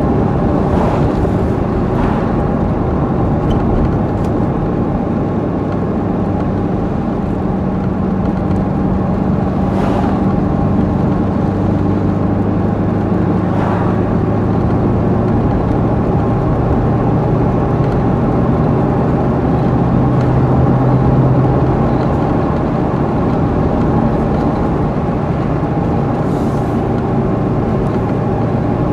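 Chevrolet Corvette C5 Z06's LS6 V8 running at a steady cruise under tyre and road noise. The engine note rises and grows a little louder about two-thirds of the way through, then settles back.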